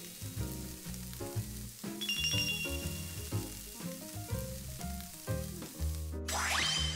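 Seafood skewers sizzling in hot sesame and cooking oil on a griddle, under light background music with a bouncy rhythm. Near the end the sizzle breaks off and a rising whoosh sweeps up.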